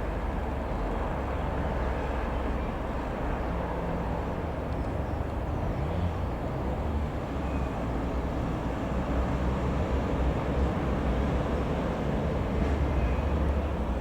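Distant aircraft drone, a steady low rumble that grows slightly louder.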